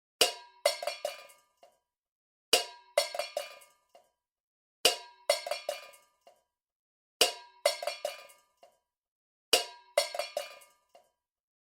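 A metal kitchen object struck repeatedly and ringing. The same pattern of one hard clink followed by a quick run of lighter clinks comes back five times, about every two seconds, like a looped sound clip.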